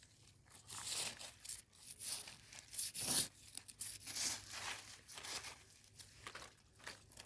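Dry leaf litter and soil rustling and crunching in irregular bursts as termite mushrooms are dug out and picked by hand.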